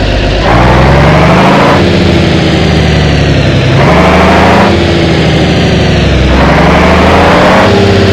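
A motor running and straining, its pitch surging and dropping in waves about every two seconds, as the DIY toy tractor tries to pull its trolleys out of the mud.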